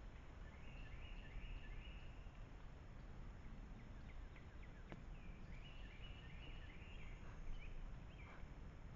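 A songbird singing two short phrases of quick slurred notes, one near the start and one about halfway through, over a faint steady outdoor rumble.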